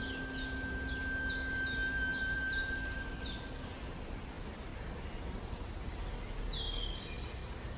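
Bird calls over a hissing natural background: a bird gives a quick run of about eight high, sharply descending notes, about three a second, over a thin steady tone. Both stop after about three and a half seconds, and a single descending call comes near the end.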